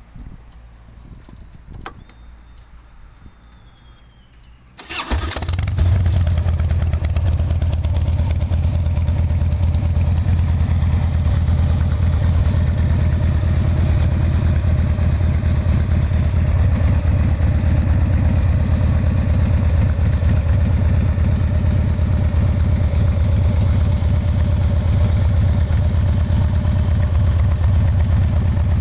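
2009 Harley-Davidson Dyna Super Glide's Twin Cam 96 V-twin, breathing through Khrome Werks 2.5-inch mufflers, starts up. After a few quiet clicks the engine catches suddenly about five seconds in, then idles loudly and steadily with a low, heavy exhaust note.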